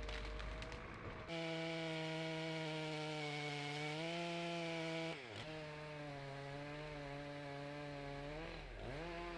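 Chainsaw engine running at high revs. It starts about a second in, and its pitch briefly sags and recovers twice.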